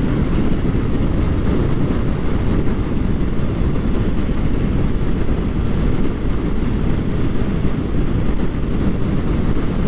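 Kawasaki Ninja 400 on the move: a steady, loud rush of wind and engine noise from its 399 cc parallel twin, heaviest in the low end, with a thin, steady high whine over it.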